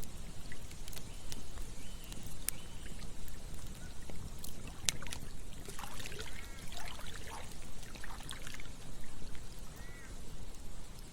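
Campfire crackling with scattered sharp pops over the steady rush of flowing stream water. About six to eight seconds in, a flurry of short higher-pitched chirps rises briefly above the water.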